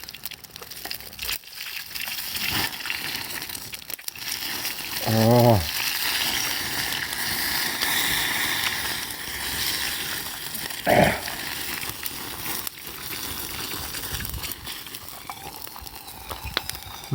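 Campfire crackling, with scattered small clicks and rustles throughout. A man gives a short appreciative hum about five seconds in, and there is another brief voiced sound around eleven seconds.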